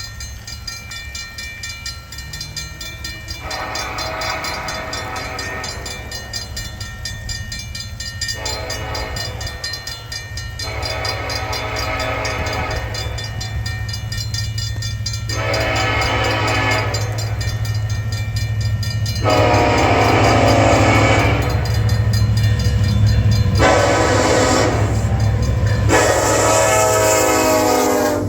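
Approaching single-unit locomotive sounding its multi-chime air horn for the grade crossing: seven blasts, long and short, getting louder as it nears, over a steady low rumble. A crossing bell rings steadily underneath.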